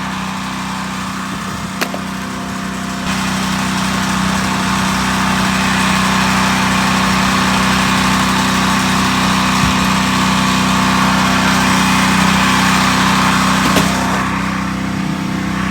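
An engine running steadily at idle, joined about three seconds in by a steady rushing hiss.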